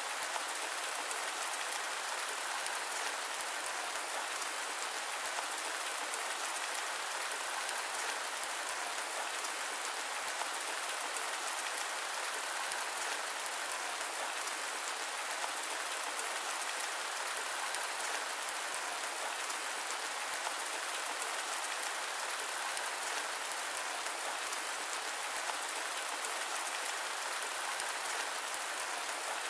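Steady rain falling: an even, unbroken hiss of drops, with no thunder.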